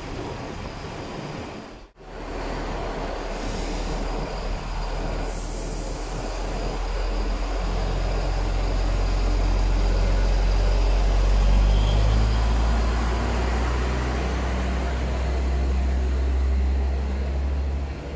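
Red regional multiple unit passing along the platform and pulling away, a steady low drone that swells to its loudest about twelve seconds in and holds. The sound drops out briefly about two seconds in.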